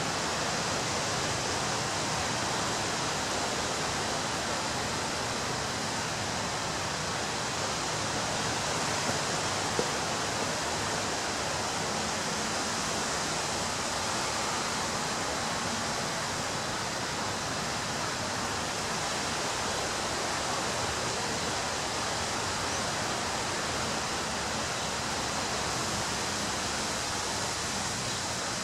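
Surf on a beach: a continuous, even rush of breaking waves with no single wave standing out.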